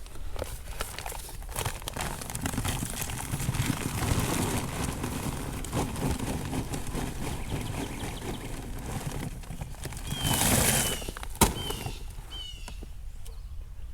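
Charcoal and wood being handled and loaded into a makeshift fire pit under a grill grate: irregular rustling and clattering with many small knocks, a louder rushing burst about ten seconds in and a sharp click just after. A few short, high, falling bird chirps come near the end.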